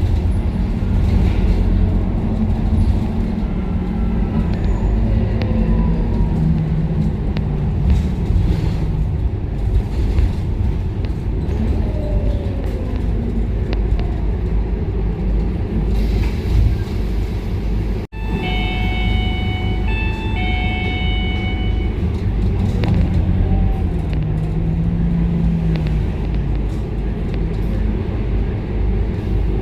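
Scania K230UB bus heard from inside while under way: the diesel engine and drivetrain run under a steady road rumble, the engine note rising and falling with speed. A little past halfway the sound cuts out for an instant, then a run of short electronic beeps follows for about two seconds.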